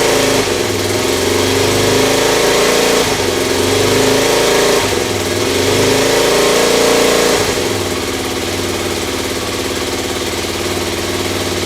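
Suzuki Djebel 250's single-cylinder four-stroke engine running after its timing chain has been replaced, the throttle opened and eased off a few times, then settling to a steady idle about eight seconds in.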